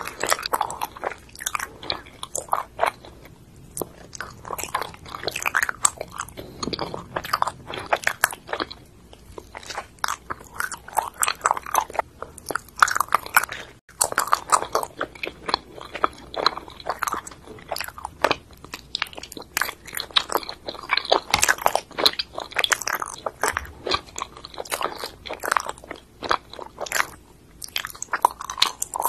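Chewing soft, sticky mochi with a cream and strawberry filling: wet smacking and clicking mouth sounds in quick, irregular runs.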